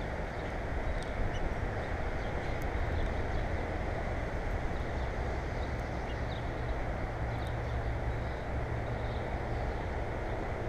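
Steady low rumbling noise, with faint, short bird chirps scattered over it.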